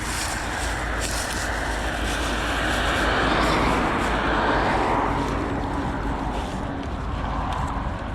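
Road traffic passing: a vehicle's tyre and engine noise swells to a peak about halfway through, then fades away.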